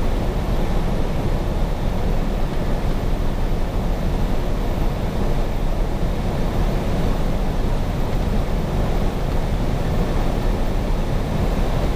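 Cab noise of a 1993 KME Renegade fire engine driving at speed: its 300 hp Cummins 6CTA 8.3 diesel running steadily under road and wind noise.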